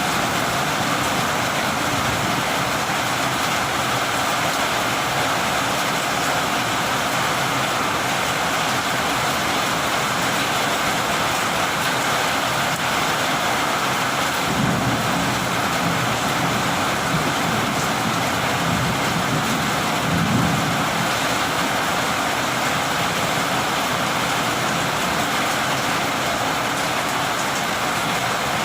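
Heavy rain falling steadily in a thunderstorm. A low rumble of thunder builds about halfway through and is loudest about two-thirds in.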